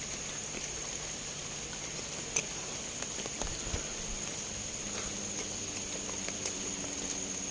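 Tropical forest ambience: a steady, high-pitched insect drone, with scattered light clicks and crackles, the sharpest about two and a half seconds in.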